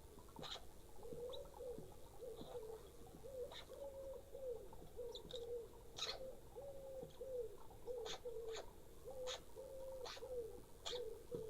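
A pigeon cooing over and over, a string of short low notes with hardly a break, starting about a second in. Short sharp high ticks sound every second or so over the cooing.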